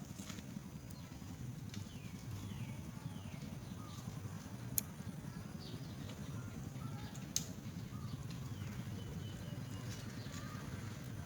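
Faint short chirps from a myna, each a quick downward glide, repeated at intervals over a low steady rumble, with two sharp clicks in the middle.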